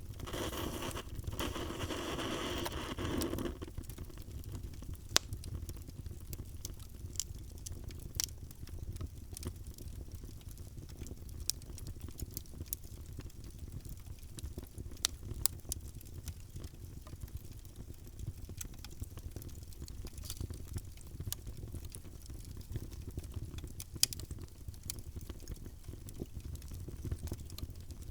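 Wood fire burning in a fireplace: a steady low rumble of flames with scattered sharp crackles and pops. A louder hiss rises over the first three seconds or so, then dies back.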